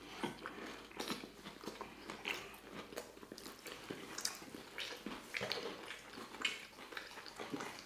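Close-miked chewing and biting of a fried catfish taco in a soft flour tortilla: many short, irregular mouth clicks and crunches.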